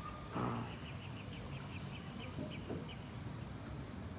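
A small bird chirping in a quick run of short high calls, several a second, that pauses and resumes, over a steady outdoor background hiss. A brief louder sound stands out about half a second in.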